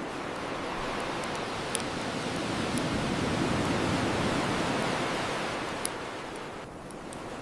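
An ocean wave washing up the shore, swelling to its loudest about halfway through and easing off near the end, with occasional sharp pops from a crackling bonfire.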